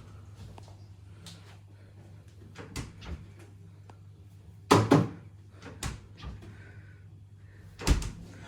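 A door or cupboard being handled: scattered light knocks, a sharp double knock about halfway through, another knock shortly after, and a loud thump near the end, over a steady low hum.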